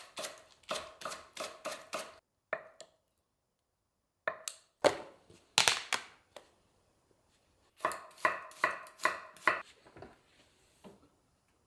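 Knife chopping food on a cutting board: runs of even strokes at about three a second, broken by short pauses, with a few lighter knocks near the end.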